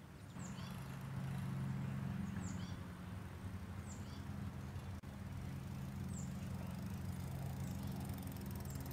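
A bird repeats a short, high, falling call every second or two over a steady low hum.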